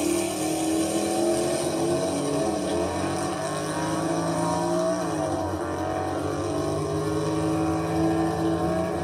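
Car engine running at steady revs, its pitch dipping and climbing back about five seconds in.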